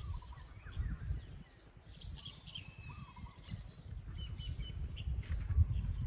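Several birds chirping and whistling, with a run of short, quickly repeated high notes through the middle, over a steady low rumble.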